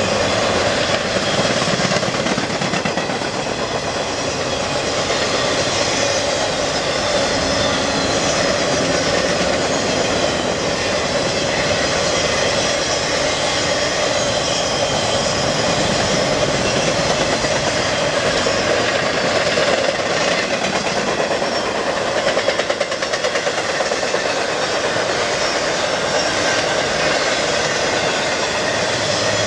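Empty articulated intermodal spine cars of a freight train rolling past on the rails: a steady noise of wheels on track with a steady tone running through it.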